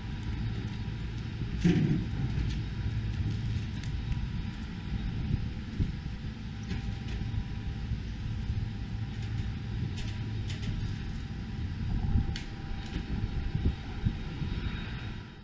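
Mil Mi-26 heavy helicopter's engines running with a steady low rumble, with scattered light clicks over it.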